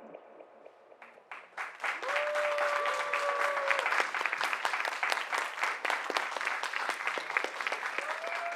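Audience applauding, breaking out about a second in after a brief hush and continuing steadily, with one long held call or whistle from the crowd over it shortly after it starts.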